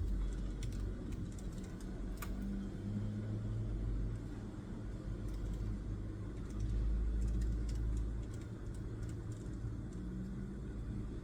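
Low rumble that swells and fades twice, with faint light clicks scattered through it, typical of sounds at a study desk.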